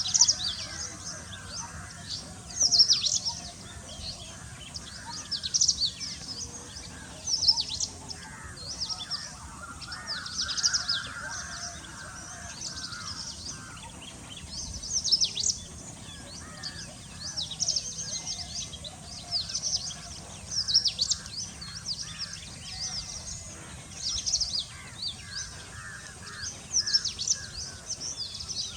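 Wild birds calling: a bright, high call of quick falling notes repeated every second or two, over softer, lower chattering from other birds.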